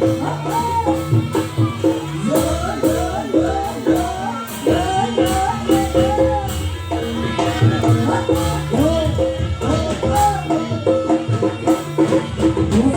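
Live Javanese jaranan gamelan music: a wavering lead melody over held gong-like tones and drums, with a regular jingling beat.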